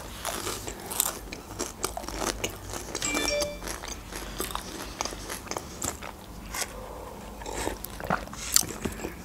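Close-miked chewing of a mouthful of crisp pastry, with many small crunches and mouth clicks, and a sip from a paper cup near the end.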